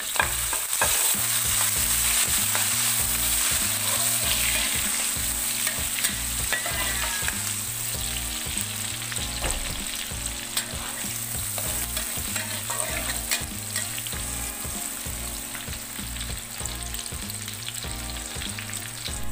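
Sliced shallots sizzling as they fry in hot oil in a wok, the sizzle easing slightly as they cook, with a spatula scraping and clicking against the pan now and then.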